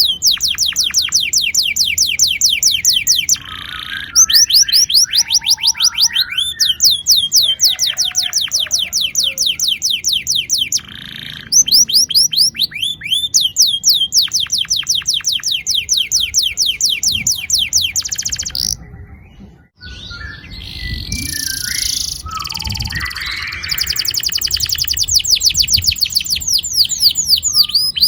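Domestic canary singing long rolling trills: fast runs of repeated high down-slurred notes, each held for several seconds. The runs are broken by short pauses, and about two-thirds through comes a patch of varied, less regular chirps.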